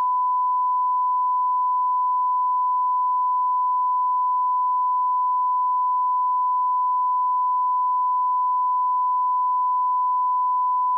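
Steady 1 kHz sine-wave line-up tone held at a constant level of −18 dB. It is a reference tone for setting and checking audio levels.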